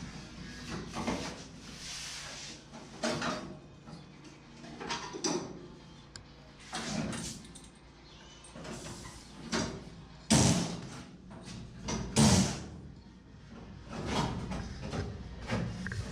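Irregular knocks, bangs and scrapes, about a dozen separate bursts, the loudest about ten and twelve seconds in.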